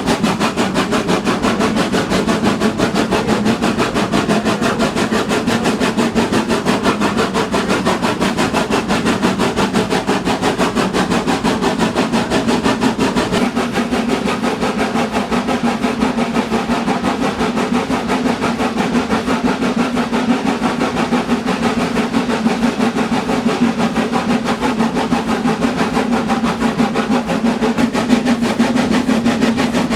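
Train running steadily: a constant low hum with a fast, even rattle.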